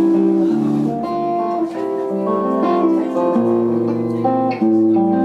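Electric guitar playing the intro of a progressive rock song live, held notes and chords changing every half second or so, in a tone that is meant to be clean but is not.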